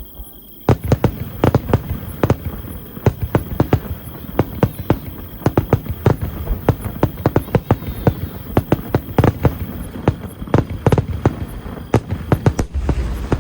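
Aerial fireworks exploding in a rapid barrage: many sharp bangs in quick succession, starting suddenly under a second in and continuing without a break.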